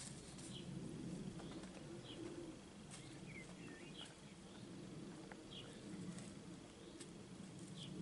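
Faint birdsong: short high chirps repeating about once a second, over a low, steady background hum.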